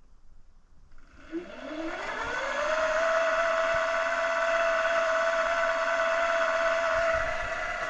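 Milling machine spindle motor starting about a second in: its whine rises in pitch for a second or so, then runs steadily at speed. The sound eases slightly about seven seconds in.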